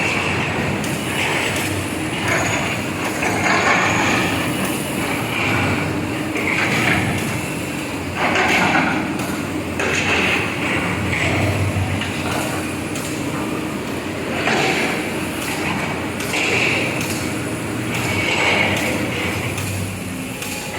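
Hydraulic backhoe excavators running and digging, with irregular clanks, knocks and scraping of buckets against soil over a steady engine noise.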